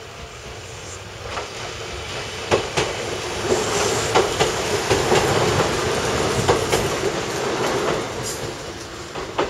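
Kintetsu Dōmyōji Line electric train passing, its wheels clacking over the rail joints in a run of sharp clicks. It grows louder over the first few seconds, is loudest around the middle and fades after about eight seconds.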